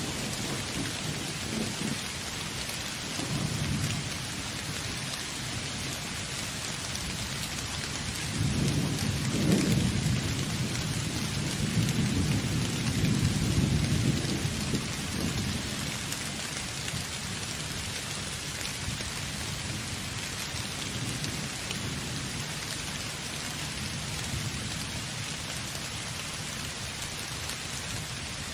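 Steady rain falling, with thunder: a short rumble a few seconds in and a longer, louder rolling rumble through the middle.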